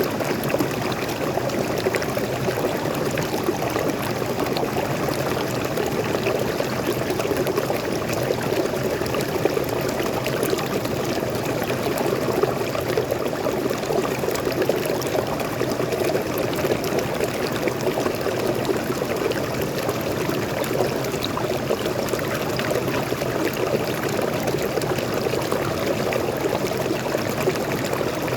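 Small forest waterfall and stream running steadily, an even rush of falling and flowing water.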